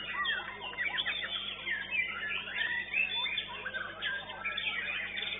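White-rumped shama (murai batu) singing a dense, rapid run of varied whistles, trills and chirps, with quick upward and downward glides.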